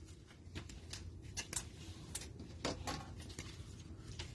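Faint, scattered clicks and rustles of trading cards being handled and sorted, over a low room hum.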